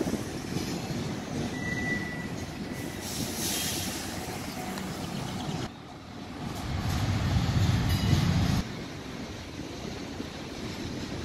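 BNSF double-stack intermodal freight train rolling past: the steady noise of wheels on rail, with a brief high tone about two seconds in. A louder low rumble comes in past the middle and stops abruptly.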